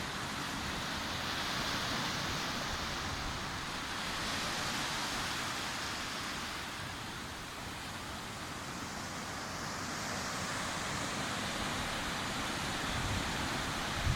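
Ocean surf washing onto a beach: a steady hiss of breaking waves that swells and eases slowly every few seconds, with a low rumble near the end.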